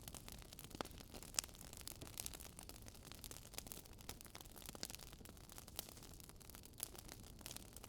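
Burning wood fire crackling: irregular sharp pops and ticks over a soft low rumble, with a few louder snaps scattered through.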